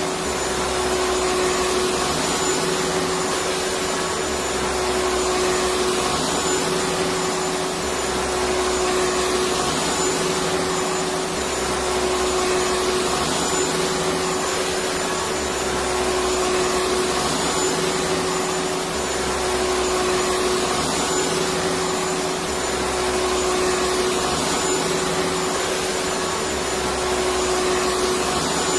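Electric vacuum cleaner running steadily: a constant rush of air with a steady hum, its low end swelling and easing about every four seconds.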